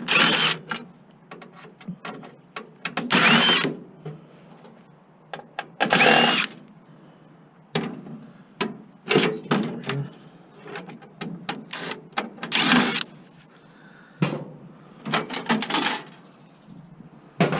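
Cordless drill or power screwdriver run in short bursts of under a second, four main times, its motor whining as it spins up, while backing out screws from scrap electronics. Metal parts clatter and click between the bursts.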